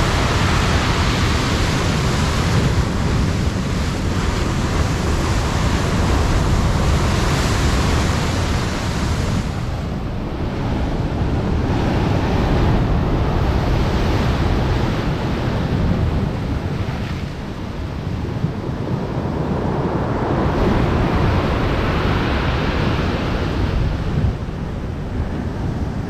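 Storm waves on the Black Sea breaking and washing ashore, the hissing wash swelling and ebbing every several seconds over a constant low rumble of wind buffeting the microphone.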